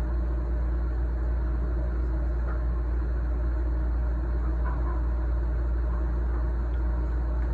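A steady low hum with a constant rumbling haze above it, unchanging throughout.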